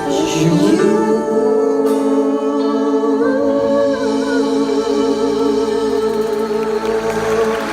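Singers holding the song's final note together in harmony, a long sustained chord with vibrato after a short rise into it, cutting off at the very end.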